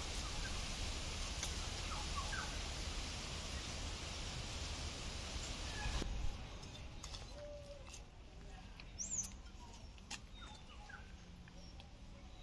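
Birds chirping now and then in short calls over a steady hiss, which drops away suddenly about six seconds in; a few faint clicks.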